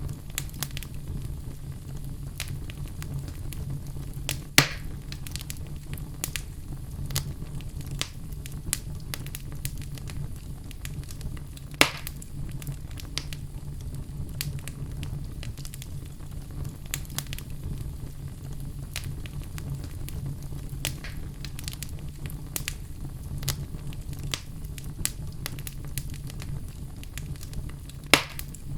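Wood fire burning in a fireplace, crackling steadily with frequent small snaps over a low, even rumble of flame. Three louder pops stand out: about four and a half seconds in, about twelve seconds in, and near the end.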